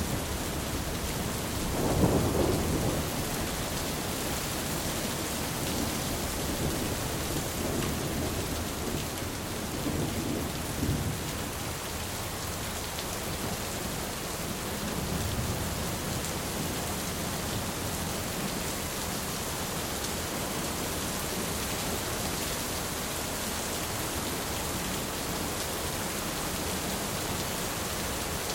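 Steady rain with low rolls of thunder; the loudest roll comes about two seconds in, with weaker rumbles around ten and fifteen seconds.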